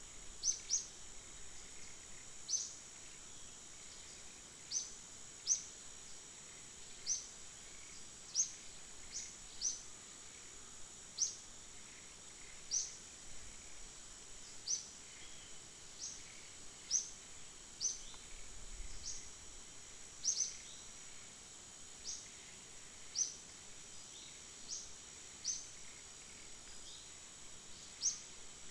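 Forest ambience: a steady high-pitched insect drone, over which a bird repeats a short, high, downward-slurred call every second or two.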